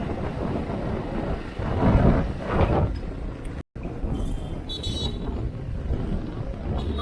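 Wind and engine rush while riding a motorcycle through traffic, swelling louder about two seconds in. Halfway through a vehicle horn toots briefly.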